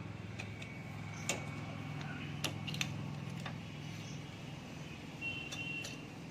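A handful of short, sharp clicks and taps from hand tools and loose metal engine parts being handled, over a steady low hum.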